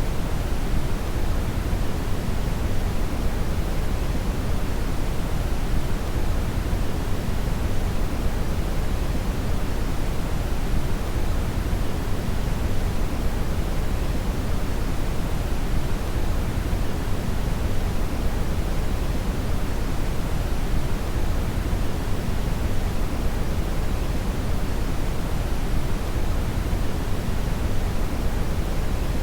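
Steady brown (red) noise: a constant, deep hiss weighted toward the low end, unchanging throughout.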